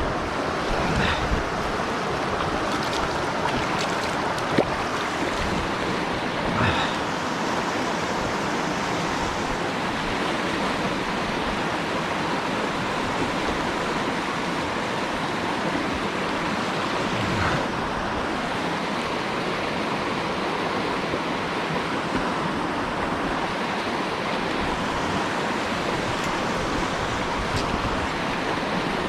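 Steady rush of river water flowing fast, with a few brief knocks over it.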